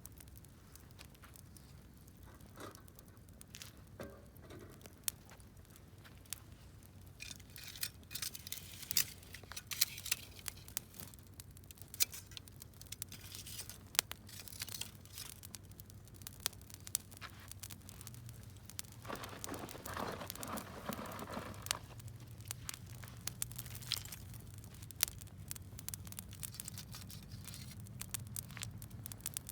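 Wood campfire crackling, with sharp, irregular pops and cracks throughout. There are denser, rustling stretches around eight seconds and again about twenty seconds in.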